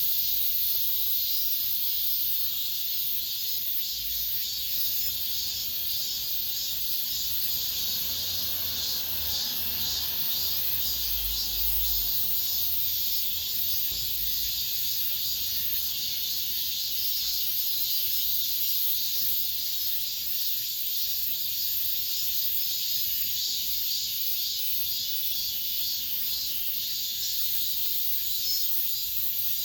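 Cicadas chorusing: a steady, dense, high-pitched buzzing drone with a fine pulsing texture.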